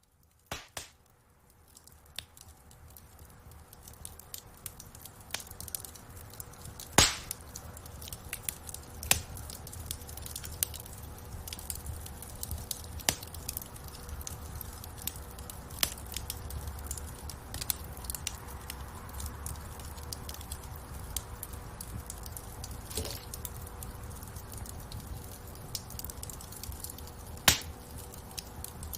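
Wood fire crackling and popping in a fireplace over a steady low rumble of the flames. It fades up from near silence over the first few seconds, and the sharpest pops come about seven seconds in and again near the end.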